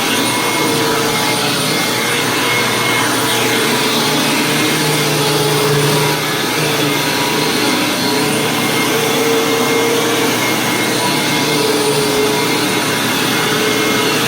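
Hoover WindTunnel Plus upright vacuum running steadily on carpet, its motor's hum wavering slightly in pitch.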